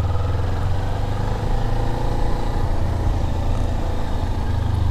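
Motorcycle engine running steadily at a low, even pace, a steady low hum.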